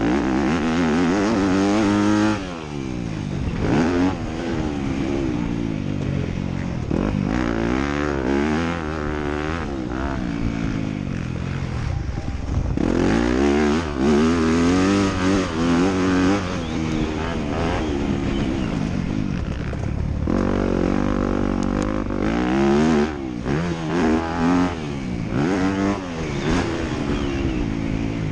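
Motocross bike engine revving hard, its pitch climbing and dropping again and again as the rider accelerates, shifts and backs off around the track.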